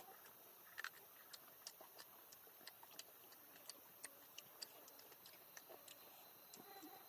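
Faint, irregular crackling of a wood or bamboo cooking fire: scattered sharp pops, a few a second, over a quiet hiss.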